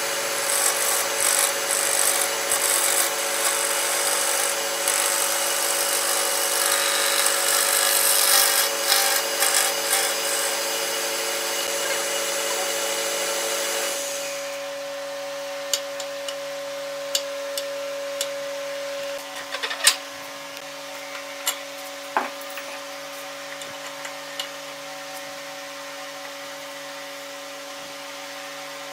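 Wood lathe motor running with a steady hum while a turning tool cuts the spinning wood with a continuous rasping scrape. About halfway through the cutting stops, leaving the motor's hum with scattered light clicks and taps.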